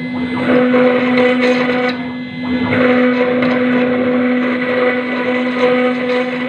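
CNC router spindle running with a steady high whine while its bit grinds into granite; the gritty cutting noise swells and eases as the tool moves, dipping briefly a little after two seconds in.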